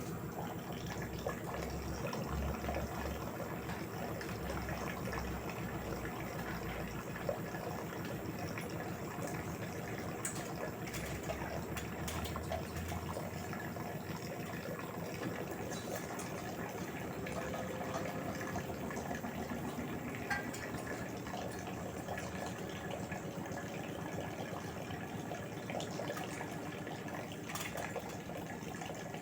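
LG direct-drive washing machine mid-cycle, with water running and sloshing in the turning drum: a steady wash of water noise over a low rumble that comes and goes.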